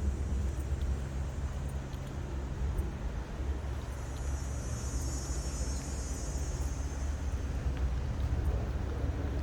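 Outdoor ambience: a steady low rumble, with a high buzz that swells and fades over about three seconds midway.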